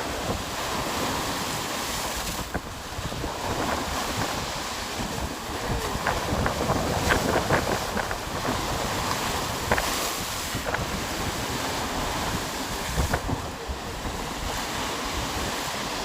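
Rough sea waves surging and breaking against the seafront at high tide, with wind buffeting the microphone.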